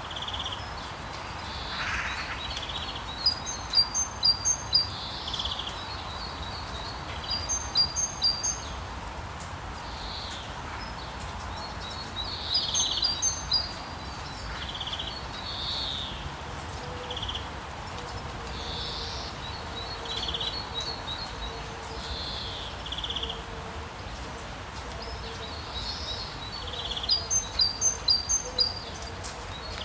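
Birds chirping and calling, with quick runs of short high chirps repeating every few seconds, over a steady background noise.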